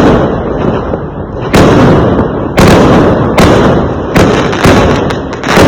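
Fireworks exploding: six loud bangs about a second apart, each trailing off in a low rumble that runs into the next.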